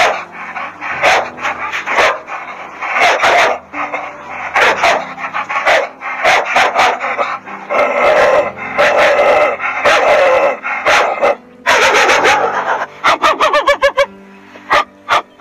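Dog barking over and over in short, sharp barks, with a quick run of barks near the end.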